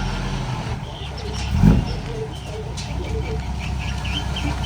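Diesel engine of heavy earthmoving equipment running with a low, steady drone, surging briefly about one and a half seconds in.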